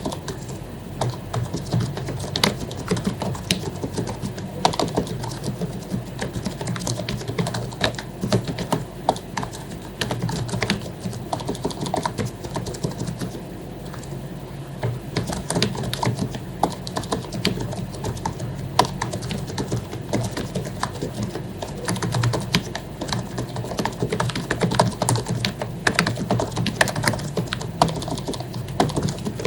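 Continuous typing on an HP membrane keyboard with lubed keycaps: a dense, uneven run of soft key presses, several a second.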